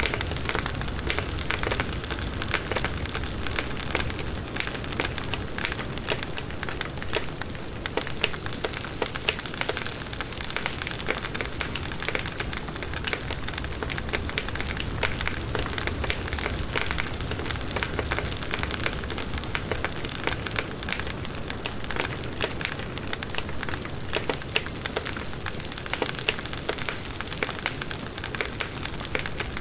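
Campfire of firewood burning: many small sharp crackles and pops over a steady low rush of the flames.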